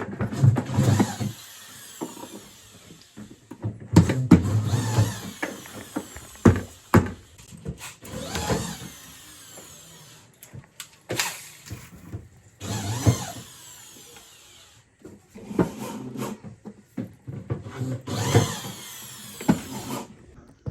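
A hand-held power tool, like a drill or power screwdriver, run in short bursts about every four to five seconds, with knocks and clatter of parts between bursts.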